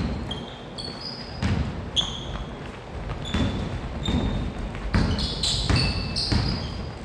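A basketball bouncing on a gym floor during play, with sneakers squeaking in short, sharp chirps between the thuds of the ball.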